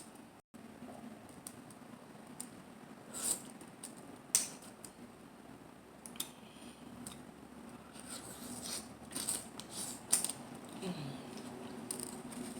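Close-miked eating sounds: mussel and clam shells giving sharp clicks and cracks as they are handled and opened, scattered through, with a quick run of clicks near the end over soft wet mouth sounds.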